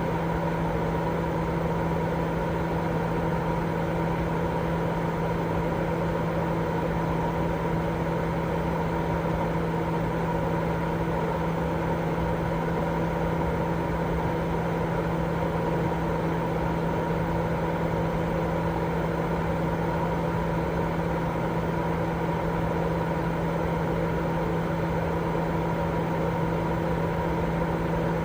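Continuous white noise for baby sleep: a steady, unchanging rushing noise, heaviest in the low and middle range, with a steady low hum running through it.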